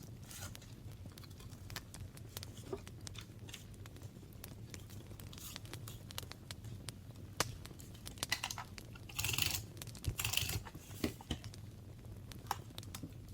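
Paper crafting sounds: small taps and rustles of paper being handled, with two short rasping bursts about two-thirds of the way in, like paper being torn or rubbed.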